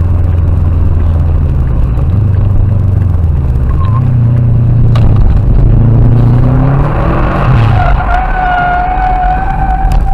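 Car engine and road noise from inside the cabin, picked up by a dashcam's built-in microphone. The engine note steps in pitch a few times and rises as the car accelerates, and a steady high whine joins in about eight seconds in.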